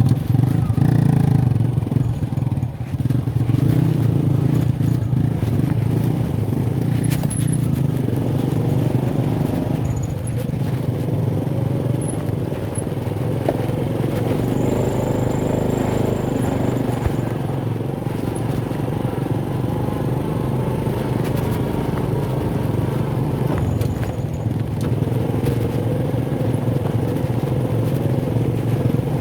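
Small motorcycle engine running steadily as the bike is ridden along a rough dirt footpath, with scattered rattles and clicks from the bumpy ground.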